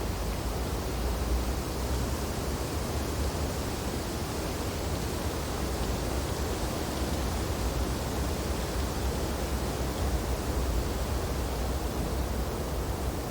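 Wind blowing through snow-laden tree branches, a steady rushing noise with a deep low rumble underneath.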